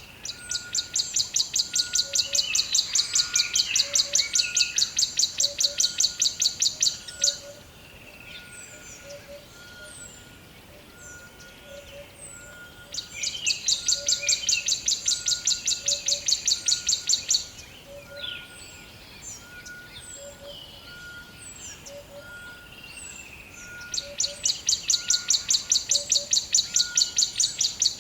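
Birds chirping and calling, with many short chirps and quick glides. Three times a loud, rapid pulsing trill sounds for several seconds: about seven seconds from the start, again in the middle and near the end.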